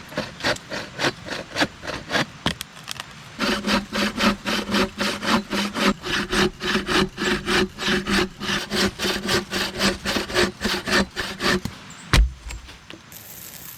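Hand saw cutting through wood in quick, even back-and-forth strokes, about three a second, getting louder a few seconds in. The sawing stops and a single thump follows near the end.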